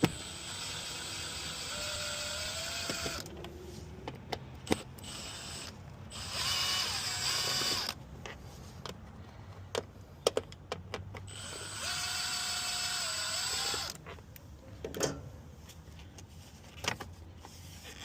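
A cordless drill-driver runs in three bursts of two to three seconds each while backing out fasteners; near the end of two of the bursts its whine steps up in pitch. Sharp clicks and taps of tools and metal parts come between the bursts.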